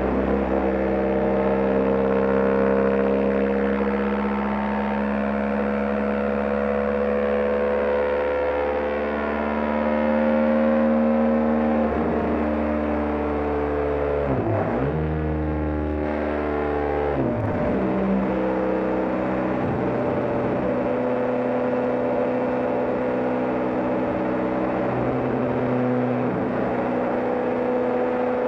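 BMW GS Adventure motorcycle engine running steadily at highway cruising speed, heard from the rider's position. Its pitch dips sharply and comes back up a few times around the middle, as the throttle is eased off and reopened.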